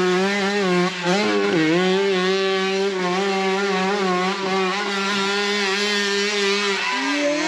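Dirt bike engine revving hard and holding high revs, its pitch dipping briefly about a second and a half in. A second bike's engine comes in rising near the end.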